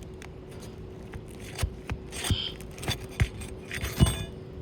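A tool prying under asphalt roof shingles to break their seal, making scattered scrapes and sharp clicks, the sharpest about four seconds in.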